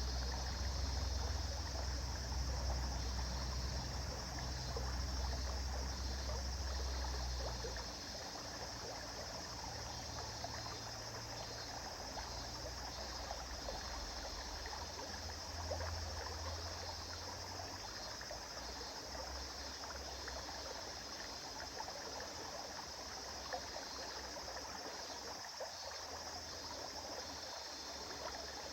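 River water flowing steadily over stones, a continuous rushing and trickling. A deep low rumble underlies it for the first eight seconds or so, then fades.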